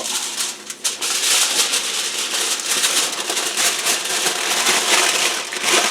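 Thin aluminum foil crinkling and crackling as it is rolled and folded around ears of buttered corn, a steady run of irregular crinkles.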